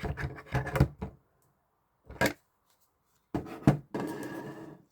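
Knocks and sharp clicks of hard plastic as electric salt and pepper grinders are handled and set into their stand: a cluster of knocks at the start, two single clicks, then a short scraping rub near the end.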